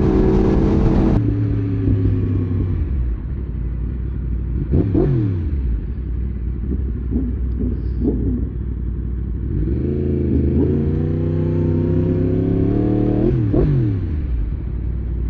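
Two crossplane inline-four sport bike engines running together at highway speed, their exhaust notes sounding at once in a 'harmonization'. The revs fall in the first few seconds, climb again about ten seconds in, then drop near the end, with two quick pitch sweeps about five and thirteen seconds in.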